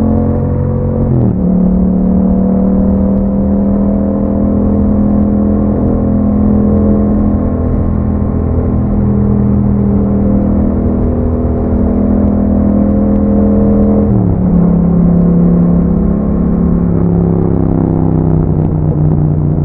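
Yamaha MT-07's parallel-twin engine running under way through an Akrapovic exhaust, a steady exhaust note. Its pitch drops sharply about a second in and again about fourteen seconds in, as on gear changes, then holds level.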